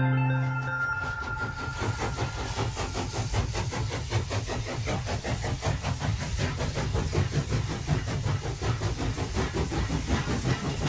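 A train running along the track, its wheels clattering rapidly and evenly over the rail joints. Music fades out in the first second as the train sound takes over.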